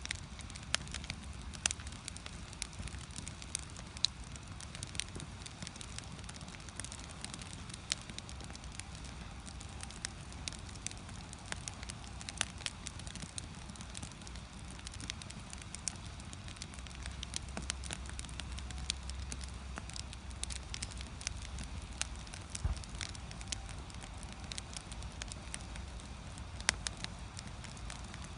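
Firewood burning in a traditional Korean agungi firebox, crackling and popping with many irregular sharp snaps over a steady low rumble.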